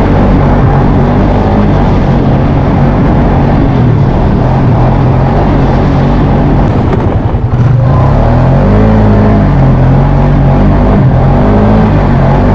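Four-wheeler (ATV) engine running under throttle, its pitch rising and falling as it revs. About seven and a half seconds in it briefly drops off before picking up again.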